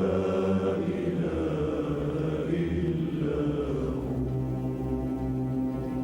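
Slow, drawn-out religious chanting: a voice holds and bends long ornamented notes over a steady musical drone. About four seconds in, the line settles into steady held tones.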